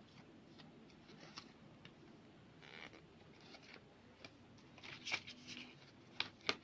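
Faint handling noise: scattered light clicks and rustling, with a few sharper ticks near the end.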